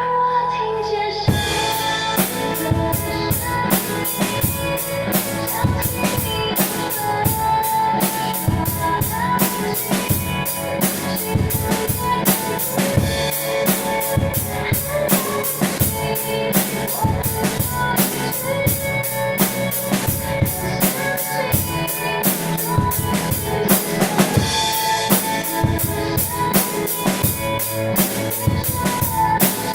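A drum kit, with bass drum and snare, played in a steady beat along with a recorded pop ballad backing track; the drums come in about a second in.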